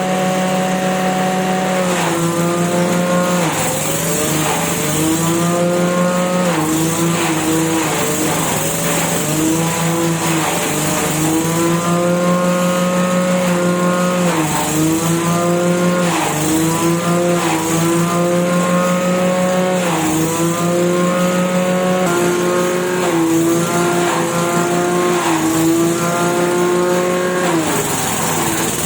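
Engine-driven grass chopper running at speed, its pitch dipping briefly and recovering every two seconds or so as it comes under load, with a steady hiss over it.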